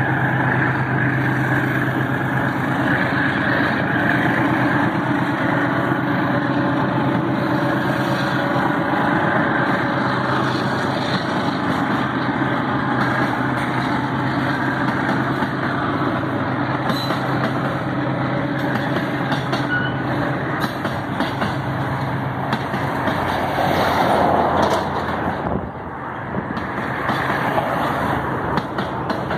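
Freight train's hopper wagons rolling past, a steady rumble of wheels on rail under a constant low drone. Near the end a road vehicle passes close by.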